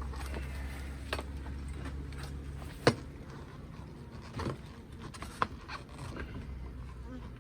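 Wooden beehive boxes and frames being handled: scattered knocks and scrapes, the sharpest about three seconds in and another about five and a half seconds in, over a low rumble that fades out about three seconds in.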